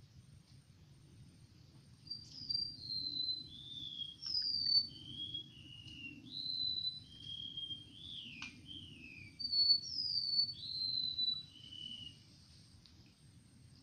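A songbird singing a string of clear whistled notes, each sliding downward in pitch, the run stepping lower as it goes; a shorter second phrase follows after a brief break.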